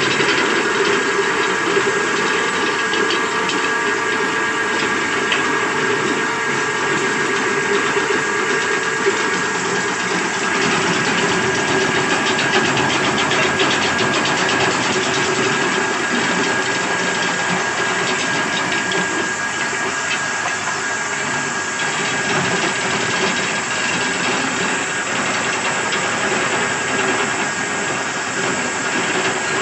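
Belt sanding machine for wooden rods running steadily: a hiss from the abrasive belt over a steady motor whine, shifting slightly in tone about ten seconds in.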